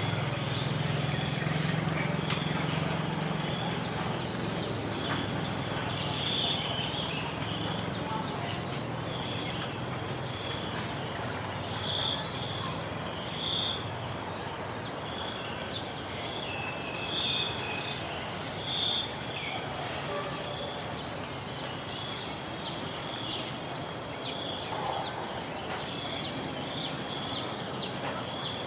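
Rural ambience after rain: birds calling with short repeated notes every second or two over a steady high-pitched insect buzz. A low hum fades out in the first few seconds.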